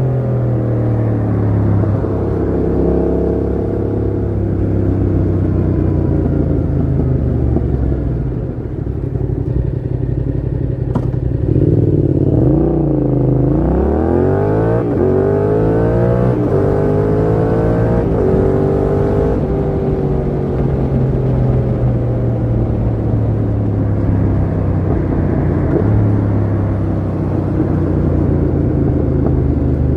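Yamaha MT-07 parallel-twin engine through a Mivv GP Pro full exhaust with the dB killer fitted, heard while riding. It holds a steady cruise and eases off a little, then from about twelve seconds in it accelerates through several gears as a string of rising revs, and settles back to a steady cruise.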